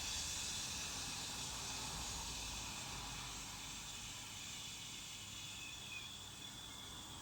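A long, steady 'shhh' hiss exhaled through the lips, as if deflating a balloon, and held on one breath as long as possible as a sound-therapy breathing exercise. It fades gradually as the breath runs out.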